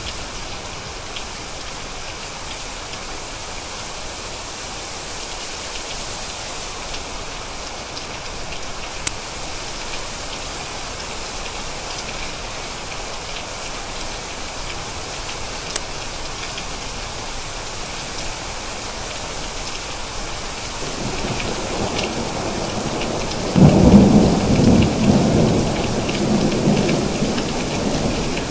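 Steady rain falling, with a few sharp drips standing out, and a roll of thunder that builds about three-quarters of the way through, peaks with a loud crack and rumbles on to the end.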